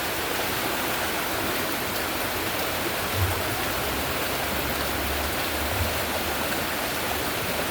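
Floodwater rushing through a rain-swollen gully: a steady, even rush, with a deeper rumble from about three to six seconds in.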